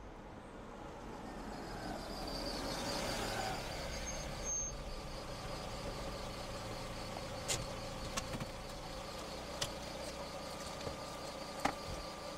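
A car engine running steadily, its hum swelling over the first few seconds and then holding level, with a few sharp clicks in the second half.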